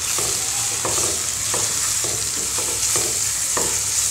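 Onion, tomato and potato frying in oil in a nonstick pan, sizzling steadily, as a wooden spatula stirs and scrapes the just-added masala powder into the oil with about three strokes a second.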